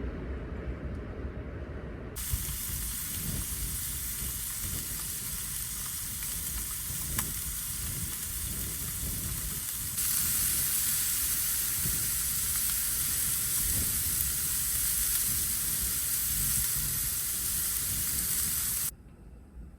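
Food sizzling in a hot pan, a steady hiss that cuts in about two seconds in, grows louder about halfway, and stops suddenly near the end.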